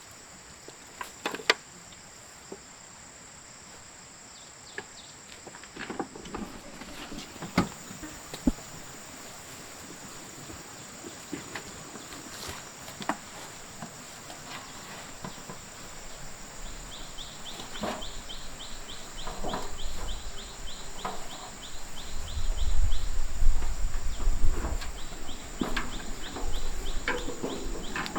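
Insects, crickets or cicadas, calling steadily in a high continuous buzz, with a rapid ticking trill joining in the second half. Scattered knocks and clicks from handling or work run through it, and a louder stretch of low rumble and thuds comes about two-thirds of the way in.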